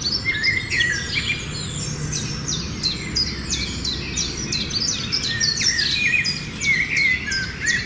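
Several small birds chirping and calling together: a dense run of quick, high downslurred chirps with lower warbled notes, over a steady low hum.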